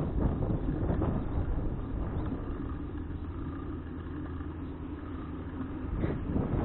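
Low, steady rumble of wind on an action camera's microphone and road noise while riding a bicycle, easing off in the middle and growing louder again near the end.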